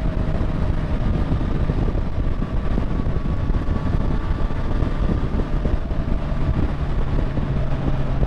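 Motorcycle engine running at steady road speed, with wind rushing over the microphone; a lower, deeper engine note joins about two-thirds of the way through.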